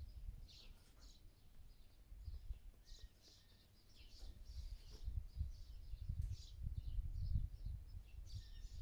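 Small birds chirping in short, scattered calls over a low, uneven rumble that grows stronger in the second half.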